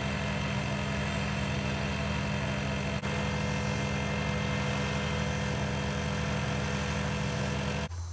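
Wood lathe motor running steadily, spinning a resin pen blank, with a single faint click about three seconds in. The running noise cuts off suddenly near the end, leaving a low hum.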